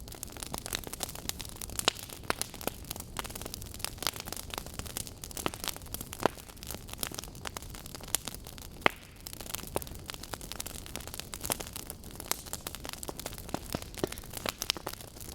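Burning wood logs crackling: irregular sharp pops and snaps over a steady low hiss, with one louder snap about nine seconds in.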